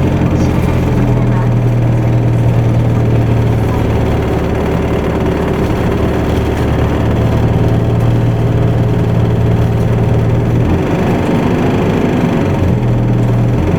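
Isuzu Erga Mio city bus's diesel engine running under way, with road noise, heard from inside the cabin. The engine note drops away briefly near the end, then picks up again.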